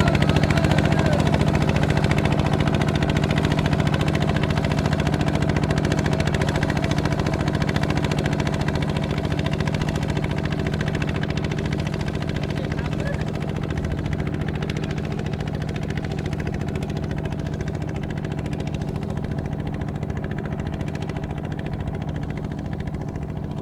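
Kubota ZT155 single-cylinder diesel engine of a tractor running steadily with a fast, even putter, slowly growing quieter.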